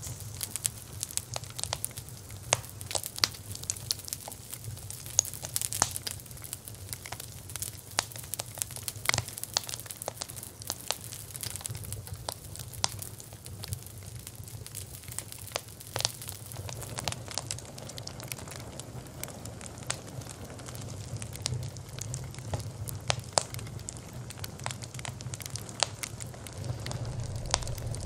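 Wood fire burning, with irregular sharp crackles and pops over a low steady rumble of flame; the pops come thick at first and thin out in the second half as a soft hiss rises.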